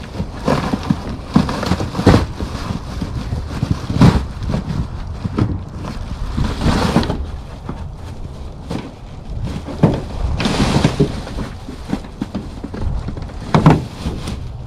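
Packaging being handled and pulled open: irregular knocks and clunks with longer rustling, sliding swishes as a packing blanket is pulled away.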